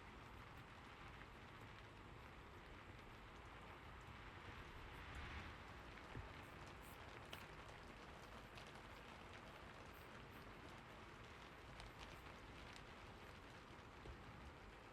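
Faint, steady rain: an even hiss with occasional light ticks.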